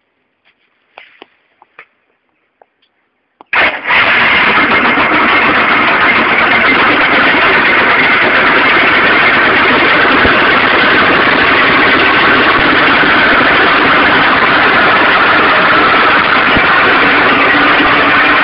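A few faint clicks, then about three and a half seconds in the Stels Arrow scooter's small two-stroke engine comes in suddenly and runs loudly and steadily. The owner hears a knock in this engine that a new Malossi piston did not cure, though the crank and its bearings were judged fine.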